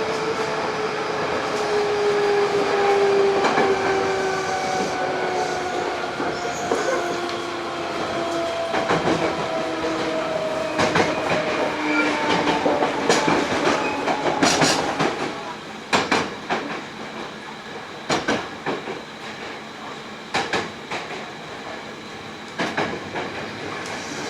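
Hankyu 8000 series electric train with Toshiba GTO-VVVF traction, heard from inside the car: the inverter and motor tones fall slowly in pitch as the train brakes, over wheels clacking on rail joints. In the second half the running noise drops and the clacks come further apart as the train slows.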